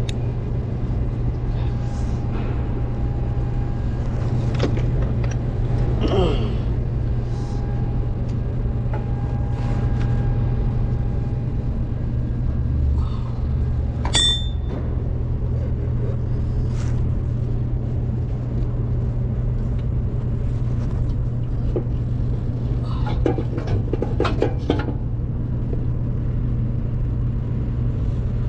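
A steady low rumble, like a running motor, with scattered light clicks and metallic taps over it, a brief high chirp about halfway through, and a quick cluster of clicks near the end.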